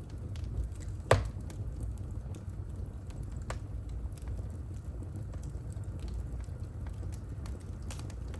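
Wood fire burning in a home fireplace: a steady low hiss with scattered faint crackles, one loud sharp pop about a second in and a smaller one a couple of seconds later.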